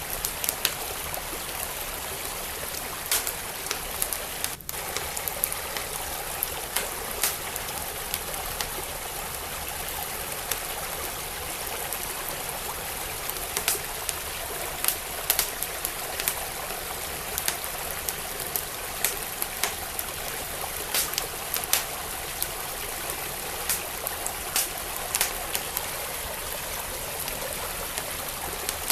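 Steadily flowing stream with a wood fire crackling over it, its sharp pops and snaps coming irregularly throughout.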